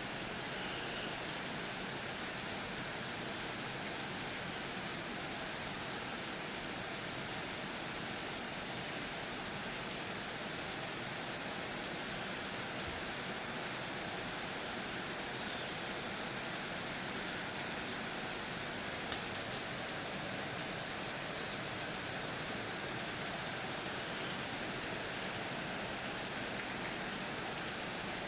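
Steady, unbroken hiss of rain falling during a storm, with one faint tick about two-thirds of the way through.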